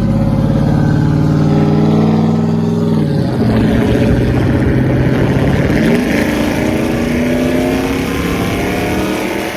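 Pickup truck engine pulling through a straight-piped exhaust with the mufflers removed, heard while driving. The engine pitch climbs, drops sharply about three seconds in as the gear changes, then climbs steadily again under acceleration.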